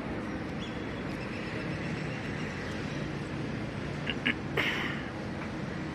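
Steady background noise of a vehicle service bay with a low hum, and a few short clicks and a brief scrape about four to five seconds in.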